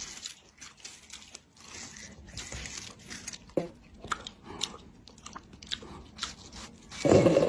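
Crunching and chewing: a run of short, crisp crunches, with a louder burst of sound near the end.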